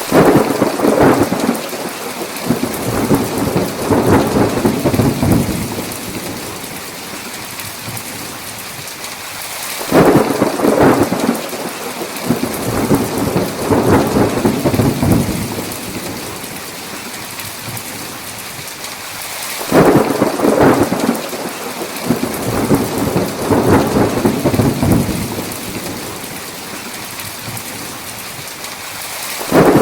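Thunderstorm: steady heavy rain with thunder rumbling about every ten seconds. Each peal starts with a sharp crack and rolls on for several seconds.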